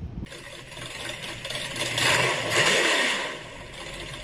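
A vehicle passing by, its noise swelling to a peak about two to three seconds in and then fading.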